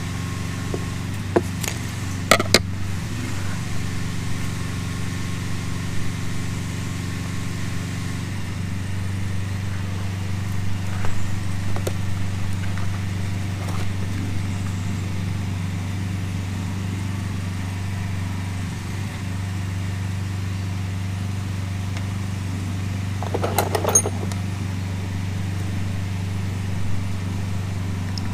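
A steady low machine hum runs throughout, with its pitch content thinning about eight seconds in. Over it come a few sharp clicks and taps of tools and wire being handled, loudest around two seconds in and again near the end.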